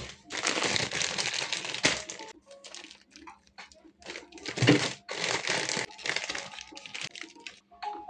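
Crinkling handling noise in several bursts of a second or two, with a faint steady hum underneath.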